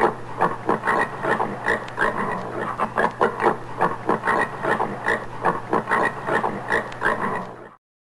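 Common warthog grunting in a rapid run of short grunts, about four a second, which cuts off shortly before the end.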